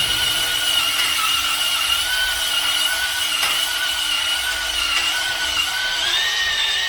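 Electric drill spinning a stone cylinder hone inside an engine block's cylinder bore, a steady whine with a scraping rasp, rising slightly in pitch near the end.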